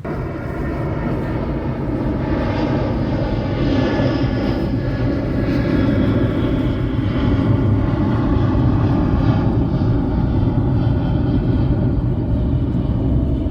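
Loud, steady engine drone, a deep rumble with a whine above it, building a little over the first few seconds.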